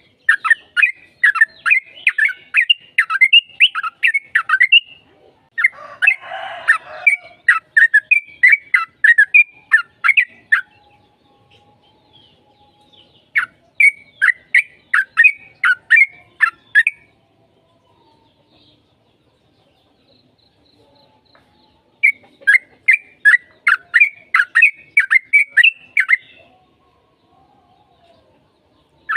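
Yellow-vented bulbul (trucukan) singing in long bouts of rapid, loud chattering notes, each bout about four to five seconds, with pauses between; a brief harsh rasping sound about six seconds in.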